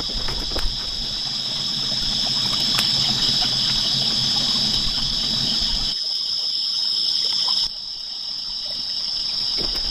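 Insects chirring in a steady, high-pitched drone, with a low rustling, trickling noise and small clicks underneath. The sound changes abruptly about six seconds in, when the low noise drops out, and again near eight seconds.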